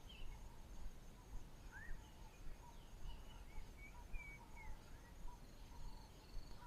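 Faint bush ambience: a steady, pulsing insect trill with scattered short, high chirps, one of them a quick rising call about two seconds in.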